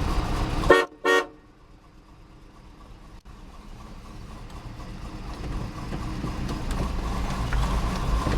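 Car horn of a 1983 Buick Riviera sounding two short toots about a second in, over the running engine's low idle.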